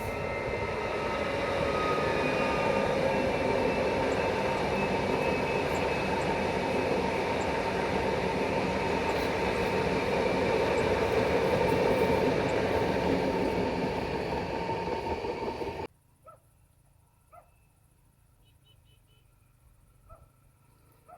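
Electric passenger train running past, a steady rumble of wheels on rail with a humming tone over it, which cuts off abruptly about three-quarters of the way through. After that there is only near quiet with a few faint clicks.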